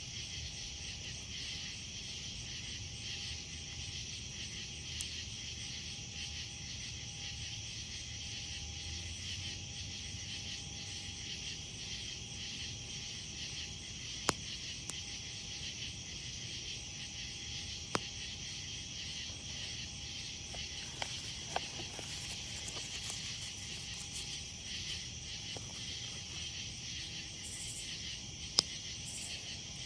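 A steady chorus of night insects, crickets, chirping, with a campfire crackling underneath and a few sharp pops from the burning wood, the loudest about halfway through and near the end.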